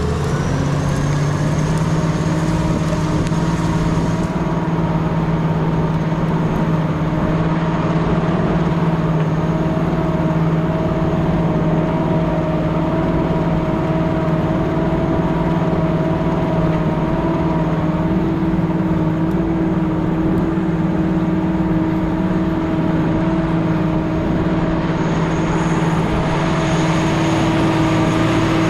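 Fiatagri 160-90 DT Turbo tractor's turbocharged diesel engine running hard and steady under load while pulling a ripper through the soil. The revs climb briefly about a second in, then hold even.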